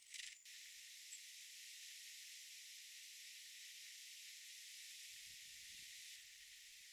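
Faint steady hiss with no low end, opening with a brief louder swish; a single tiny high bird chirp sounds about a second in.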